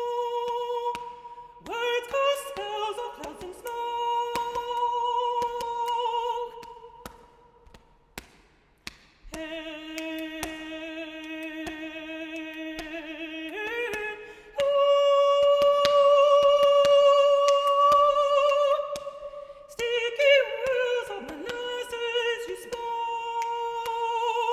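Unaccompanied solo voice singing long held notes without words, with a few quick slides between pitches, loudest on a sustained note about midway. Short sharp clicks of body percussion are scattered through it.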